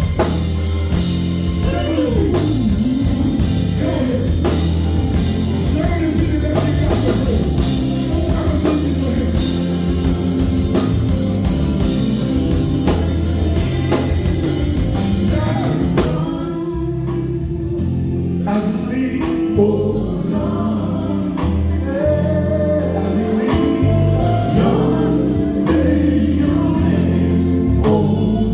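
Live gospel group singing with a backing band of drums, bass and electric guitar; the drums drop out for a couple of seconds just past halfway.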